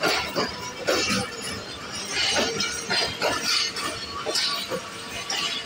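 Pakistan Railways passenger coaches of an arriving express rolling past along the platform. The running gear gives a quick, irregular run of sharp metallic clanks and clinks.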